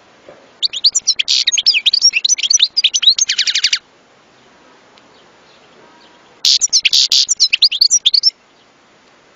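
European goldfinch singing: two bursts of rapid twittering song with a pause between. The first lasts about three seconds and ends in a fast trill. The second starts about six seconds in and lasts about two seconds.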